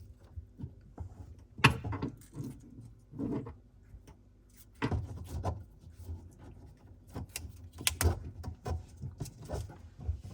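Irregular handling noises in a cramped under-sink cabinet: clicks, knocks and rustling as plumbing fittings are handled and wrapped with Teflon tape, with sharper knocks about 2, 5 and 8 seconds in.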